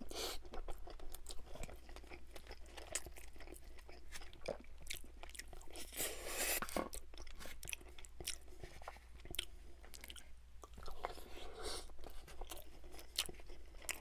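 Close-miked chewing of a mouthful of chicken fried rice, a steady run of small wet clicks and crunches. Later a wooden spoon scoops more rice from a styrofoam takeout tray.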